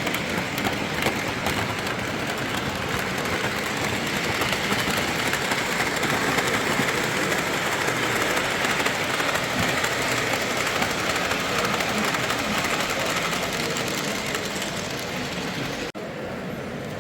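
Model train running steadily on its track, a continuous rolling noise against the din of the show hall, with a brief dropout near the end.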